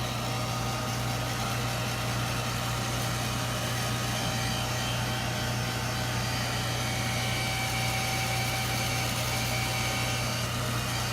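Handheld dryer blowing steadily at full speed, a steady motor whine over the rush of air, drying chalk paste on canvas before the next transfer is layered on.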